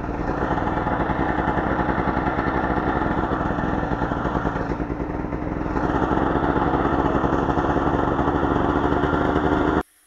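Small vehicle engine running steadily nearby, getting a little louder about six seconds in, then cutting off abruptly near the end.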